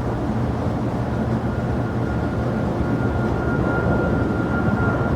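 Jet airliner engines running with a steady rumble. A thin high whine comes in about a second in and grows a little stronger.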